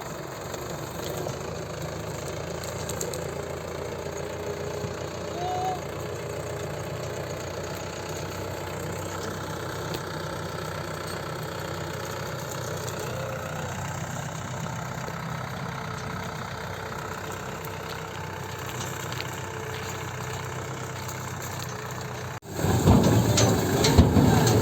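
Mahindra tractor's diesel engine running steadily at a low, even speed. About 22 seconds in the sound cuts abruptly to a much louder stretch of engine noise with rattling and knocks.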